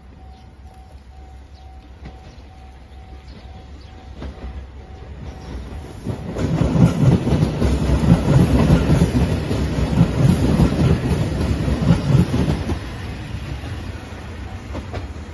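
JR Shikoku 2700 series diesel express train passing close by, its engines and wheels clattering over the rail joints. It grows louder, is loudest for about six seconds in the middle, then fades as it goes away.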